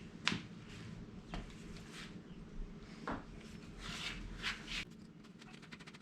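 Sounds of an old garden bench being taken apart: a sharp click just after the start, a few knocks and scrapes, then a fast, even ticking from about five seconds in.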